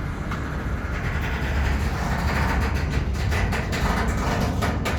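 Long freight train rolling slowly past at about 20 km/h, a steady low rumble with wheel clicks over the rail joints that come more often near the end.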